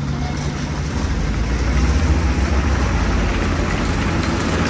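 Heavy diesel machinery engine running steadily, growing louder about a second in.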